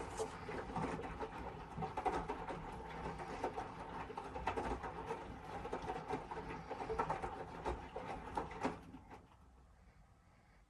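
Miele W1 washing machine running a wash: the drum turns with laundry tumbling and swishing over a steady motor hum, then stops about nine seconds in.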